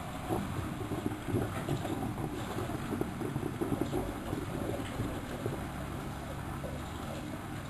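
Miele De Luxe Electronic W763 washing machine running: a steady motor hum, with irregular sloshing and knocking from the tumbling drum for the first five seconds or so.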